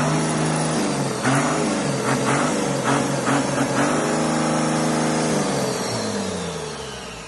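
Cummins diesel engine being revved: several quick throttle blips, then held at higher revs for a second or so before the revs fall back toward idle near the end.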